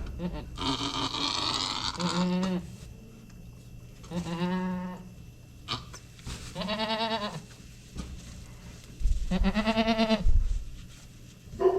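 Goat bleating: four long calls a couple of seconds apart, the first higher and rougher than the rest, with a couple of low thumps near the end.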